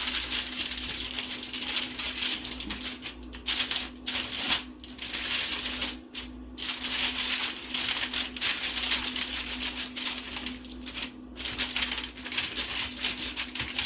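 Aluminium foil being crinkled and folded around a fish, a dense papery crackle that comes and goes in handfuls with short pauses. A steady low hum runs underneath.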